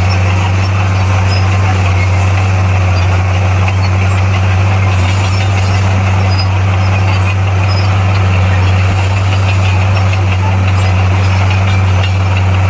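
Diesel engine of heavy earthmoving equipment running steadily at a constant pitch, a loud, even low hum with no change in speed.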